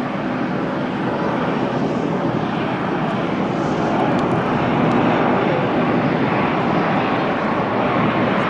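De Havilland Canada Dash 8 twin-turboprop airliner landing, its engines and propellers making a steady loud noise that grows slightly louder.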